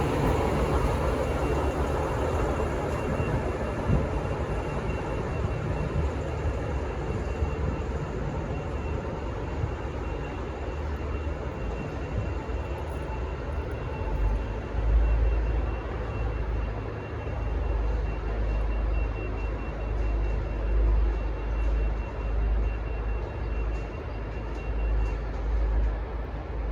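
V/Line VLocity diesel railcar set running as it pulls out, a steady rumbling vehicle noise. A deeper, uneven low rumble comes in about halfway through.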